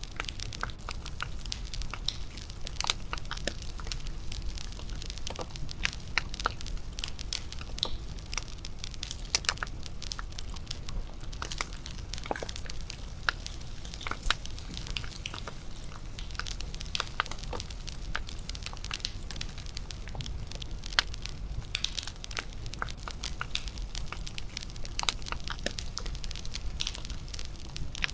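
Wood bonfire crackling, with frequent irregular sharp pops and snaps over a steady low rumble of the burning fire.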